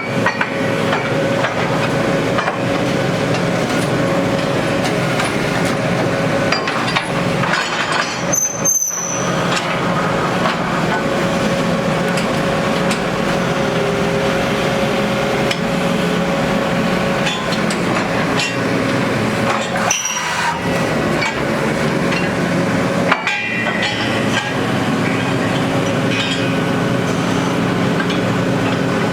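Borehole drilling rig's engine running steadily with a constant hum, with repeated metallic knocks and clanks as drill rods and bits are handled.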